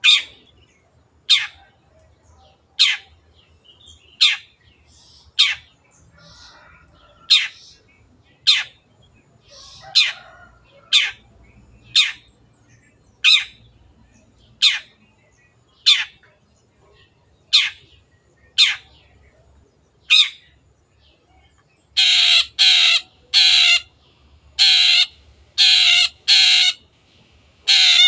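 Long-tailed shrike (cendet) calling: a steady series of sharp, downward-slurred notes, one about every second and a half, then after about twenty seconds a quick run of harsh, noisy calls.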